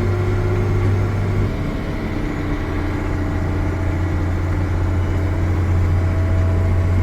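Engine of a 1980-vintage self-propelled swather running steadily under load, a low, even drone. About a second and a half in, its pitch and level drop slightly, then settle again.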